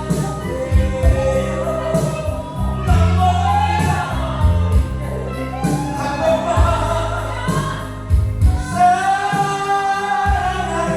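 A person singing a song over musical accompaniment, holding long wavering notes above a bass line and a regular drum beat.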